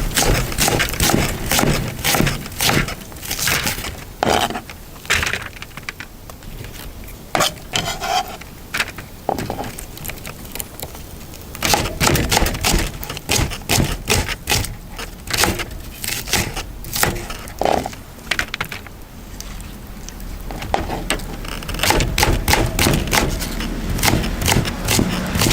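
Irregular cracks, knocks and scrapes of firewood around a wood-fired cauldron, coming in clusters with quieter stretches between.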